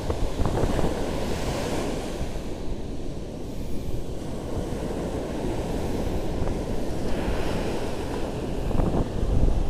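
Ocean surf washing onto a sandy beach, swelling and easing a couple of times, under strong wind buffeting the microphone with a steady low rumble.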